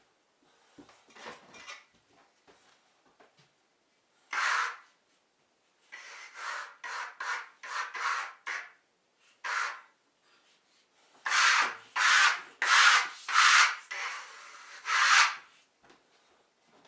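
Short rubbing or scraping strokes across a surface, each about half a second long. There is one stroke, then a quick run of about five, another single stroke, then a louder run of about five near the end.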